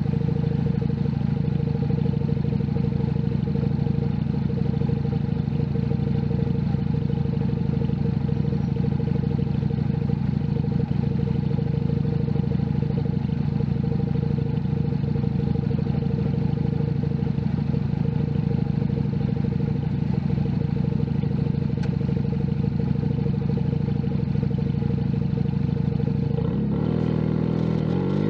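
Junak M11 Cafe's 125cc single-cylinder four-stroke engine running at steady revs. Near the end the revs begin to climb as the bike accelerates.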